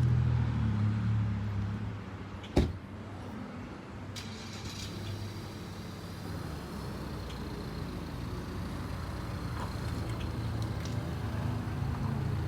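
Motor vehicle engine running steadily, easing off about two seconds in and building again near the end, with one sharp bang about two and a half seconds in.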